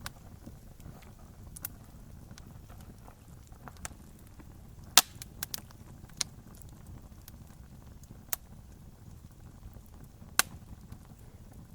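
Wood campfire crackling: scattered sharp pops and snaps over a low steady rumble, the loudest pop about five seconds in and another strong one near ten seconds.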